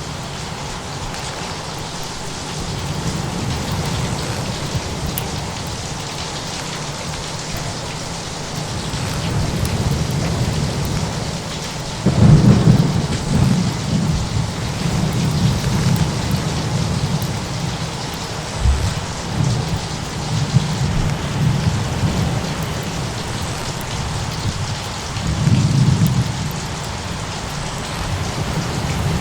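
Thunderstorm: steady rain with low rolling thunder. A sudden thunderclap comes about twelve seconds in and rumbles on for several seconds, and another roll of thunder swells near the end.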